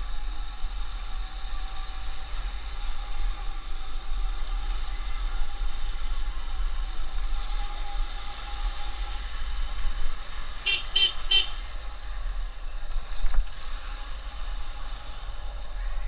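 Steady road and engine noise of a motorcycle riding on a highway, with a low rumble underneath. About eleven seconds in, a vehicle horn toots three times in quick succession.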